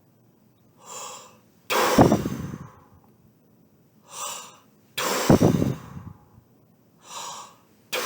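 A person breathing in and then blowing the air out hard in a short burst, three times about three seconds apart, with the last blow starting at the very end. The blows are louder than the breaths in: a brass player's breathing exercise, each breath blown straight out like a dart.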